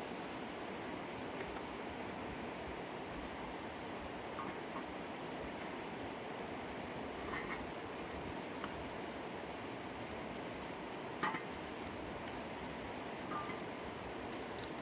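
A cricket chirping steadily in an even rhythm of about four high chirps a second, over a constant background hiss.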